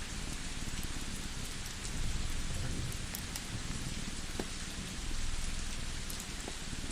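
A cat purring, its low pulsing swelling about every three seconds, over the steady hiss and scattered pops of a crackling wood fire.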